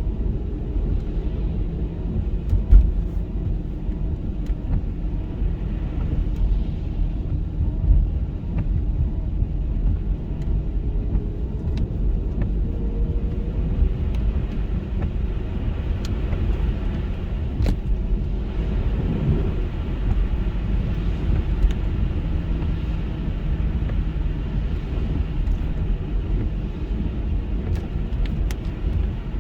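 Car being driven, heard from inside: a steady low rumble of engine and road noise with a faint engine hum, and a few brief clicks here and there.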